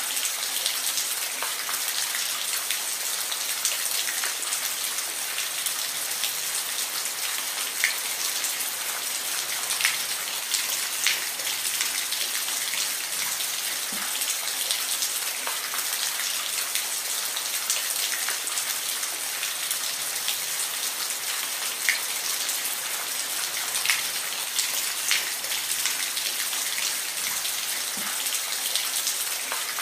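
Steady rain falling, a continuous hiss with individual drops ticking sharply on a surface here and there.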